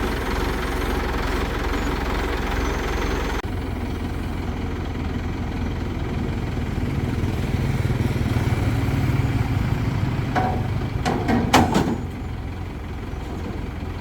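A crane's engine running steadily, then working harder for a few seconds as it picks up load, with a few short sharp knocks just before it eases off.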